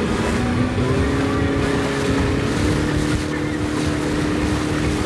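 Motorboat engine running steadily, its pitch climbing a little over the first few seconds as it speeds up, then holding.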